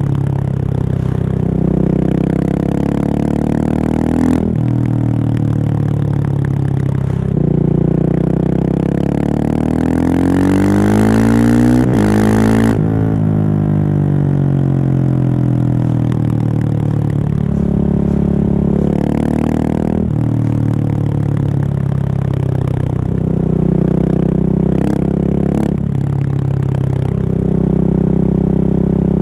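Husqvarna 701's single-cylinder engine breathing through a Remus exhaust with the dB killer removed, ridden under changing throttle. Its pitch climbs for several seconds near the middle, then drops sharply as the revs cut.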